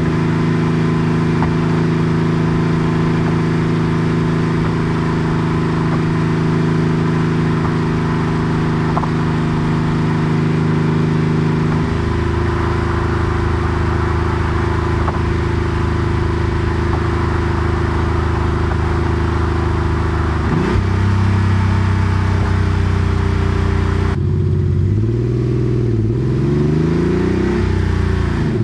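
Porsche 964 Carrera 2's air-cooled flat-six running through a center straight-through muffler, heard while driving: a steady cruise with a step down in pitch about twelve seconds in, then near the end the revs rise and drop back several times as it accelerates through the gears.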